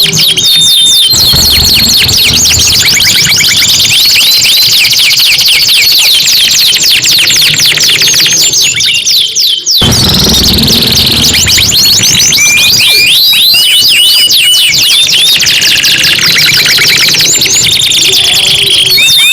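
Domestic canaries singing loudly in fast trills and rolls of rapidly repeated falling whistled notes, briefly cutting off about nine to ten seconds in and then starting up again.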